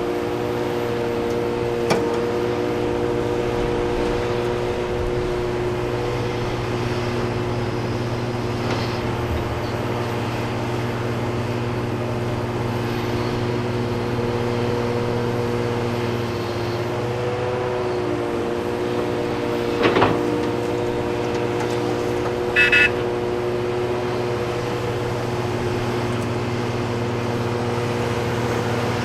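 Heavy diesel excavator and haul-truck engines running steadily on site. There is a sharp knock about two seconds in, a louder metallic clank about two-thirds of the way through, and a brief high chirp shortly after.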